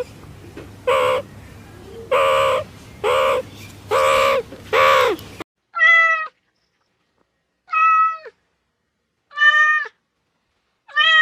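Cats meowing: a run of short meows about once a second over background hiss, then, after a cut, four separate meows with silence between them, each dropping in pitch at the end.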